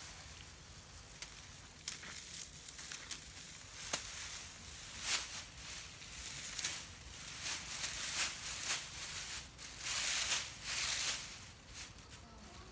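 Irregular rustling and crackling, like dry material being handled, with scattered sharp clicks and a longer rustle about ten seconds in.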